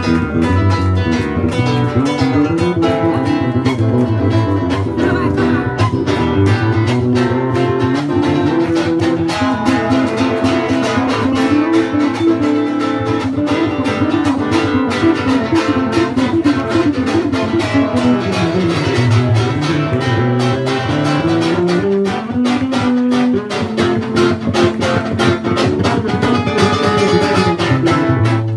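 Lively guitar music with fast, steady strumming and a melody moving up and down beneath it.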